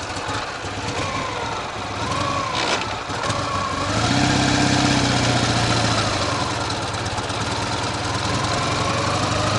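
Ural sidecar motorcycle's flat-twin engine idling, then about four seconds in running faster and steadier as it is revved or pulls away. The owner suspects a knock in the left cylinder (piston pin, piston, rings or valves) that shows under load.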